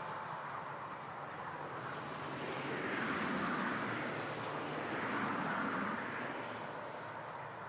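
Aprilia MX 125's single-cylinder two-stroke engine running, its sound rising and falling twice as the throttle is worked.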